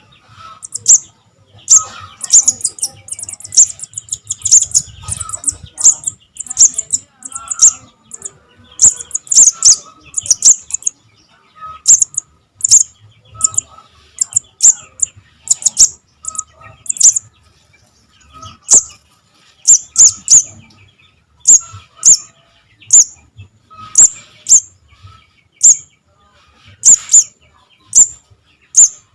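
Young sogon (sogok ontong) birds calling: sharp, high chirps repeated about once or twice a second, some coming in quick runs of several, the begging calls of fledglings.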